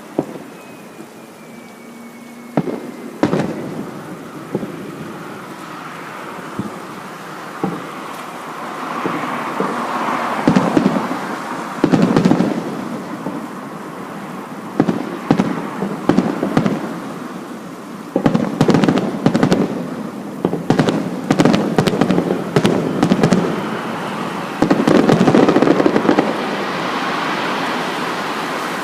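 Aerial fireworks display: shells bursting with sharp reports, a few single bursts early, then many bursts in quick succession with crackling through the second half.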